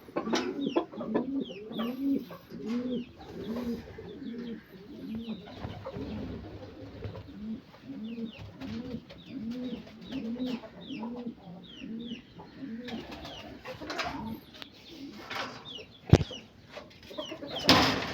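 Birds calling: a steady run of low, arched calls about two a second, with short, high, falling chirps over them. There is a sharp knock about sixteen seconds in and a louder noisy burst near the end.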